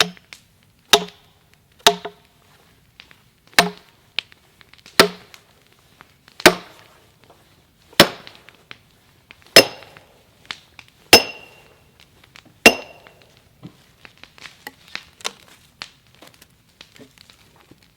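Sledgehammer striking a steel splitting wedge driven into a chestnut log, about ten heavy blows roughly a second and a half apart, the later ones ringing metallically. After the last blow come quieter scattered cracks and ticks.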